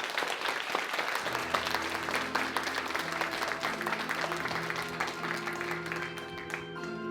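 Audience applauding, with held instrumental chords from the band coming in about a second in under the clapping. The applause thins out near the end while the music carries on.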